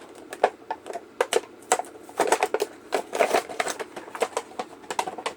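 Packaging of a boxed diecast monster truck being handled and opened: an irregular run of crinkling plastic and cardboard clicks, busiest from about two seconds in.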